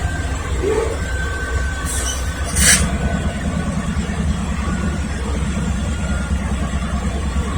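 Norfolk Southern diesel locomotive rumbling steadily as the train gets ready to pull out, with a short hiss about two and a half seconds in, after which the engine note grows stronger with a pulsing beat.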